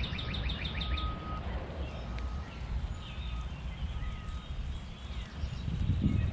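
Small backyard songbirds calling: a rapid trill of chirps that ends about a second in, then several short whistled notes, over a steady low rumble.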